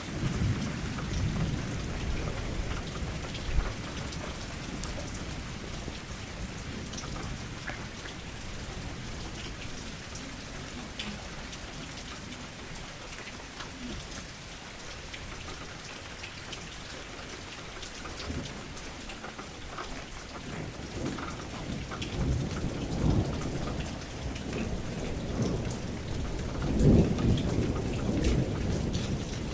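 Steady heavy rain with many individual drops ticking, and low thunder rumbling at the start, again about three-quarters of the way in, and loudest near the end.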